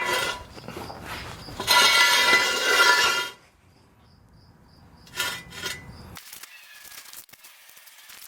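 Scraping and rattling of a metal jack being moved across the floor: one long stretch of about a second and a half, then a shorter burst about five seconds in, followed by faint clatter.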